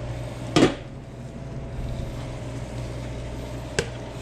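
Steady low hum of kitchen machinery, with one loud knock about half a second in and a sharp click near the end.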